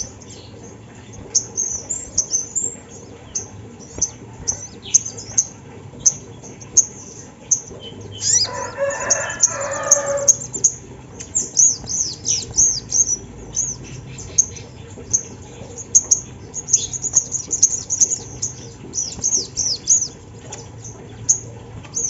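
Little spiderhunter (sogon) calling in quick runs of very high, sharp notes throughout. About eight seconds in, a lower, louder call lasting about two seconds sounds over them.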